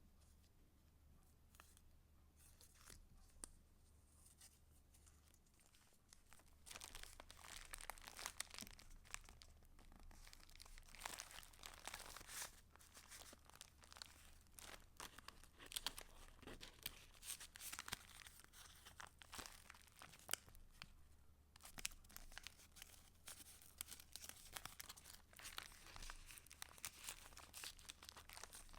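Paper and card of a junk journal being handled close up: soft rustling, crinkling and crackling as pages and paper pieces are moved. It is faint and sparse at first and gets busier and louder after about six seconds, with a brief pause later on. A faint low hum runs underneath.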